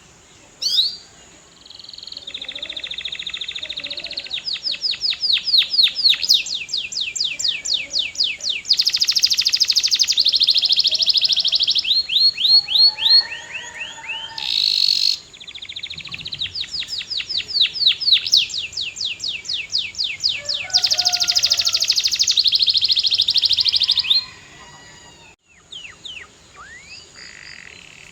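Male canary singing two long, rapid songs built of fast trills and runs of repeated notes, with a brief pause between them. A few scattered chirps follow near the end.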